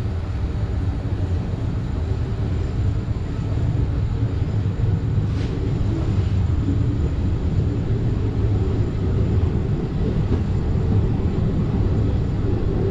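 Passenger train running along the line: a steady low rumble of coach wheels on the track, growing a little louder a few seconds in.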